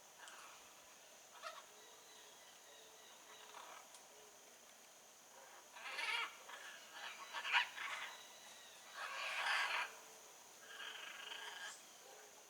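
Blue-and-yellow macaw giving harsh, rasping calls, a few faint ones early on and then a run of four or five louder ones in the second half, each under a second long.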